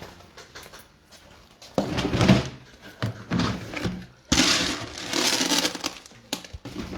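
Two bursts of rustling and clattering, one about two seconds in and a longer one from about four seconds in, with a few small knocks between.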